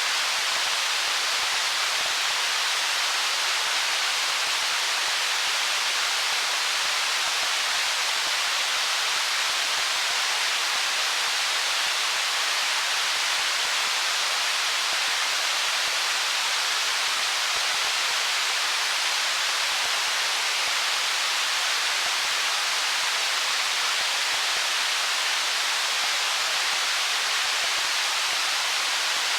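Stream water running over stones: a steady, even rushing hiss that never rises or falls.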